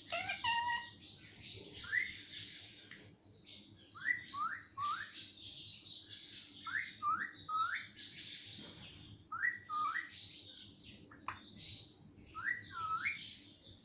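Pet parrot calling: a run of short rising calls, often two in quick succession, over a continuous raspy chatter.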